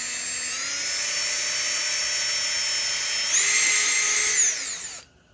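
Electric drill running steadily as it bores a hole in a 3D-printed plastic mount; its whine steps up in pitch a little over three seconds in and stops abruptly about a second and a half later.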